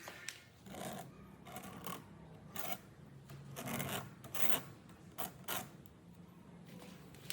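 Scraping and rubbing on wood in short, irregular strokes, like hand rasping or sanding.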